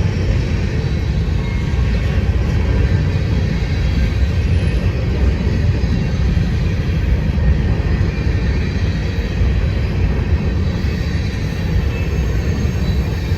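Train cars rolling past at close range: a steady, loud rumble of wheels on rail.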